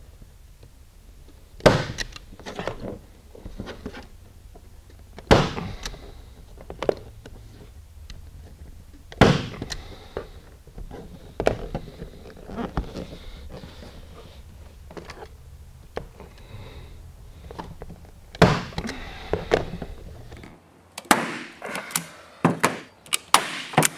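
Manual staple gun firing staples through vinyl into a pressboard door-panel backer board: a loud, sharp clack with each shot, four main ones several seconds apart, with softer handling sounds between. Near the end comes a quicker run of sharp clicks.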